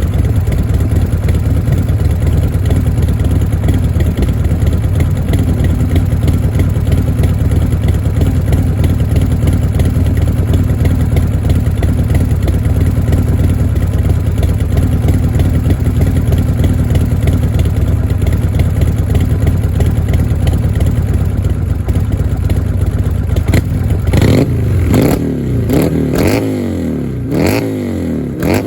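Buell motorcycle engine idling steadily, then revved in several quick throttle blips over the last few seconds, the pitch rising and falling each time with sharp cracks in between.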